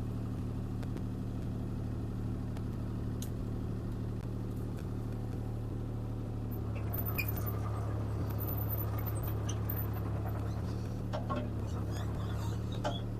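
CAT 303C CR mini excavator's diesel engine running steadily, with a few clicks and knocks from the machine working in the second half.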